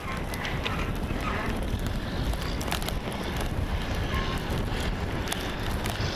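Strong blizzard wind buffeting the microphone as a steady low rumble, with scattered small sharp ticks.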